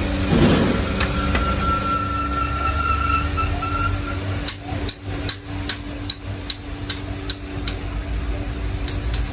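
A steady machine hum, with a thin whine for a few seconds. Then comes a run of regular sharp metallic taps, about two to three a second, each with a short ring.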